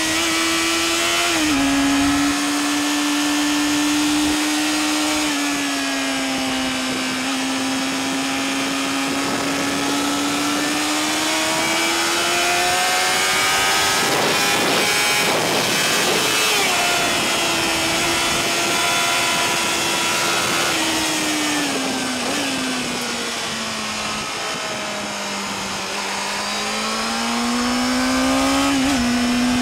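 Sport motorcycle engine heard onboard at high revs while lapping a track. The pitch drops suddenly at an upshift about a second and a half in and again near the end, sinks and climbs with the throttle in between, and wind rush swells briefly in the middle.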